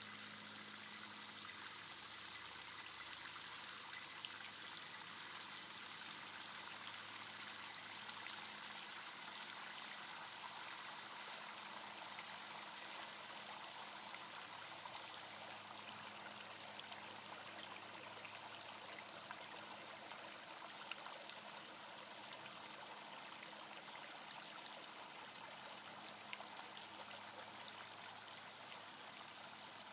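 Water trickling steadily in a self-cleaning bird bath.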